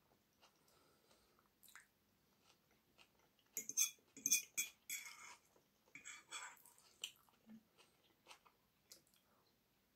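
A person chewing a mouthful of fried potatoes close to the microphone, in uneven bursts that are loudest around the middle, with a few light clicks before them.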